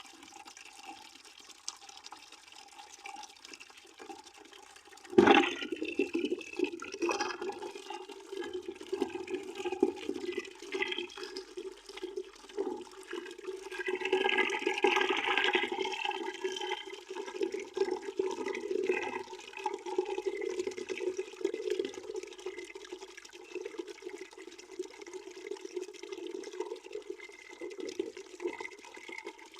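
Water pouring into a bucket as a steady splashing stream, with a hollow ring from the filling bucket. About five seconds in a sudden thump comes, and the stream grows louder after it.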